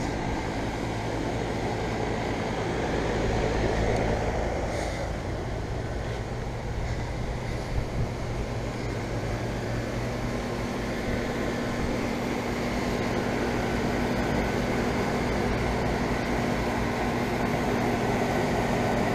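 Central air conditioner condensing units running: a steady compressor hum under the whoosh of the outdoor fans. At least one of the units has a scroll compressor.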